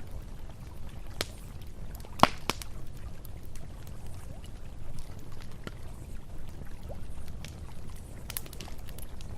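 Campfire crackling, with scattered sharp pops of burning wood, the loudest about two seconds in, over the low steady rush of a river.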